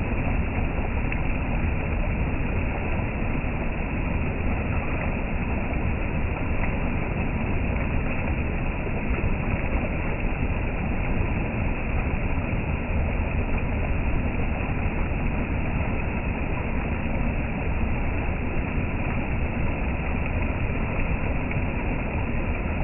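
Steady rushing of a flowing creek, with a low rumble of wind on the microphone.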